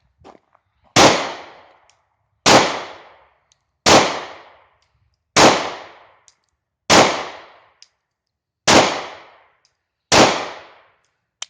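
German P.08 Luger 9mm pistol firing seven shots at a steady pace, about one every second and a half, each with a short fading echo.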